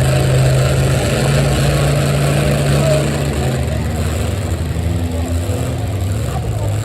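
A four-wheel-drive pulling truck's engine running at a steady pitch, dropping to a lower, quieter note about three seconds in.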